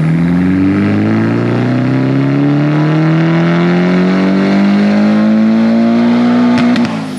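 Turbocharged Nissan SR20DET four-cylinder in a 240SX S14 on a full-throttle tuning pull on the dyno, the revs climbing steadily for about seven seconds on wastegate spring pressure. Near the end the throttle closes with a few sharp pops and the engine note drops.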